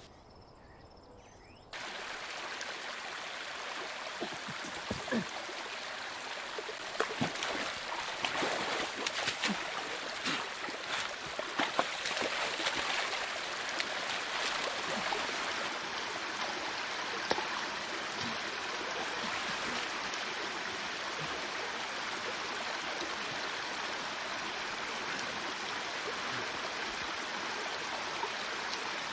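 A steady rush of water, rain or running water, that starts suddenly about two seconds in after a quieter moment. Many sharp ticks and pattering drops sound through its first half.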